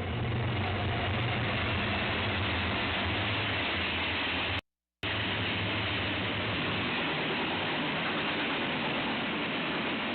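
BNSF freight train led by four diesel locomotives passing close by, a loud steady rush of engines and rolling wheels on rail. The sound drops out briefly about halfway, and after the break the low engine rumble is weaker.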